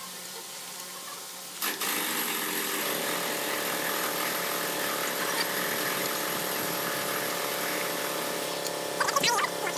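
A power tool starts up about two seconds in and runs steadily, with a few brief louder sounds near the end.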